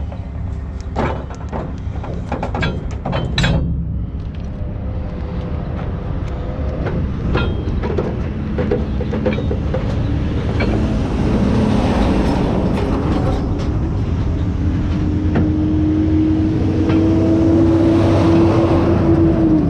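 Heavy truck running with loud clanking and rattling over the first few seconds, then a steady rumble that builds. A steady whine joins about three quarters of the way in, rising slightly before it cuts off at the end.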